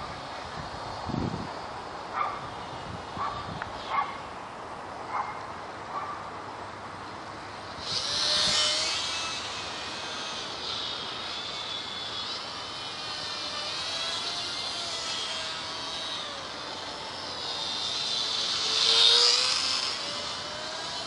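Small RC plane's electric motor and propeller whining overhead, swelling as the plane passes close about eight seconds in and again near the end, the pitch bending up and down as it flies by.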